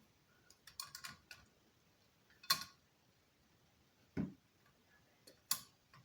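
A few scattered sharp clicks and taps of small hard objects being handled, with a cluster about a second in and a duller knock about four seconds in.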